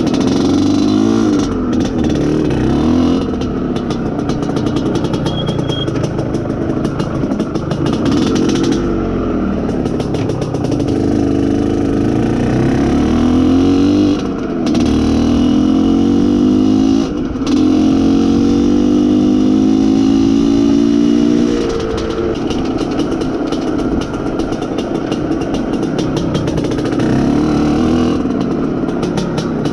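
IZh Planeta Sport's two-stroke single-cylinder engine pulling the motorcycle under way, revving up through the gears with brief dips at the shifts about halfway through, holding high revs for a few seconds, then easing off. The engine is being run in.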